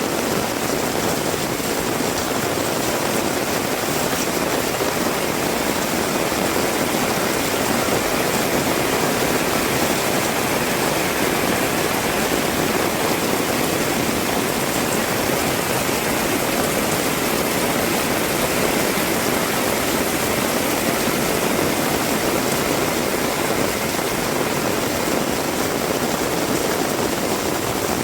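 Heavy rain falling steadily, a dense, even hiss that holds the same level throughout.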